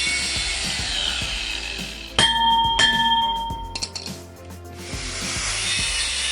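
Steady rushing hiss of the waste-oil burner's air blower. About two seconds in, two ringing metallic clangs a little over half a second apart ring on for about a second. The hiss dips briefly, then comes back.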